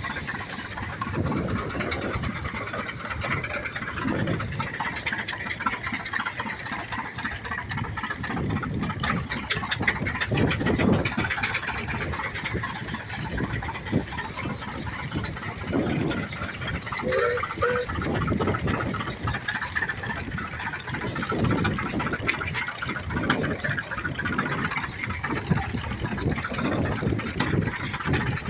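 Tractor engines running in the field, with people's voices mixed in.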